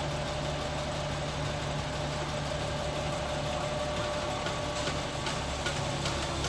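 Scania G 460 truck's diesel engine idling steadily, with a few faint light clicks in the second half.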